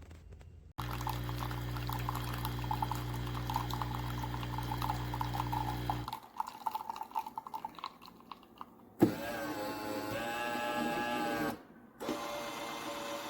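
Café Affetto automatic espresso machine running: a steady pump hum with liquid running into the cup, then after about six seconds a quieter, uneven stretch followed by a pitched machine tone that changes slightly.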